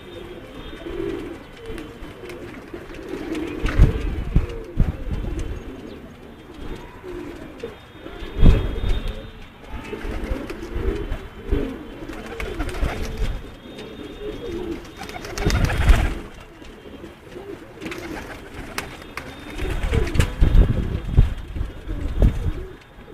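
Domestic pigeons cooing continuously, several birds overlapping. Several loud, low rumbling bursts break in over the cooing, about four times.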